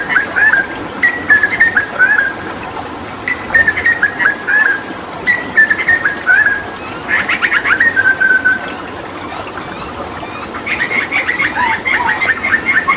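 Hooded butcherbird singing: short phrases of clear whistled notes that step downward, repeated several times, then a fast rattling run of notes, a brief pause, and a quick chatter of notes near the end. Underneath runs a steady hiss of flowing water.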